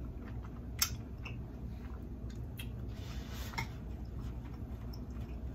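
Quiet eating sounds: a mouthful of cheesy grits being taken off a metal spoon and chewed, with a few small mouth clicks and smacks, over a steady low hum.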